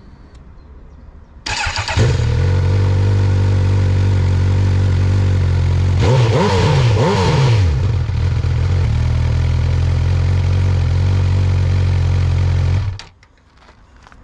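Honda CB1000R's inline-four engine cranking on the starter and catching, then idling steadily with two quick throttle blips in the middle. The engine sound stops abruptly near the end.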